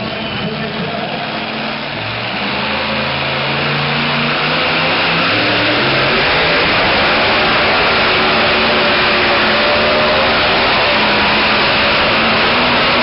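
Super modified two-wheel-drive pulling truck's engine at full throttle during a pull, its pitch and loudness climbing over the first few seconds and then holding steady and loud.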